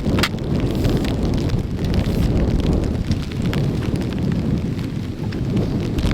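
Strong wind buffeting the microphone in a loud, steady rumble, with hard rain pattering over it as many small ticks. A single sharp tap comes about a quarter second in.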